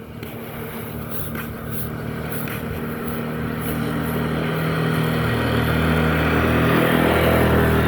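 A motor engine running steadily and growing gradually louder, as if coming closer.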